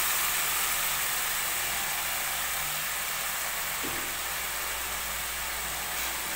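Onion-tomato masala sizzling in a kadhai just after a splash of water, a steady steaming hiss that slowly dies down, with one light knock about four seconds in.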